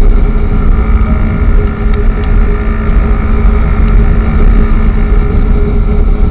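Riding noise from a Honda CB150R motorcycle on the move: steady wind rumble on the microphone over the running single-cylinder engine and road noise, with a few sharp ticks.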